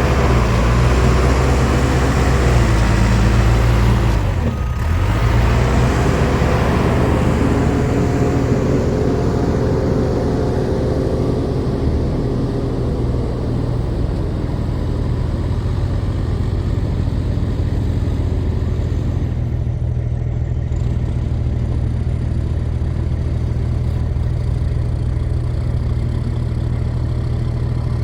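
Diesel engine of a 1999 Fermec TLK760 backhoe loader running under load while loading fill dirt, working harder for the first several seconds and then settling to a steadier run.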